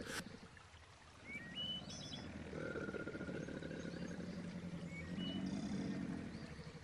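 Faint wild-nature ambience: short high bird chirps and whistles, one held for about a second and a half, over a low rumbling undertone.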